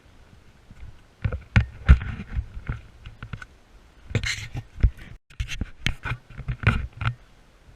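Irregular footsteps and thumping, scraping handling noise on a handheld camera while walking a trail.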